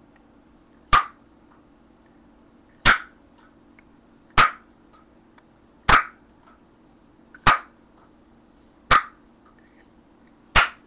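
Loud tongue clicks: seven sharp pops made with the tongue, evenly spaced about one every second and a half.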